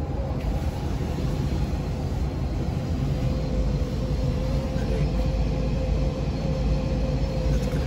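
Forced-air furnace running: a steady low rumble of the blower with a faint constant whine.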